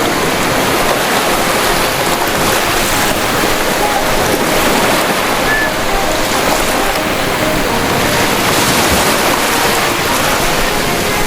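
Ocean waves breaking as surf, a steady loud rush of water.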